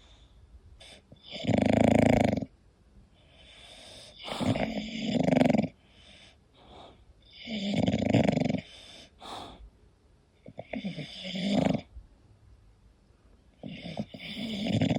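English bulldog snoring in its sleep: about five loud snores, one every three seconds or so, with quieter breathing between.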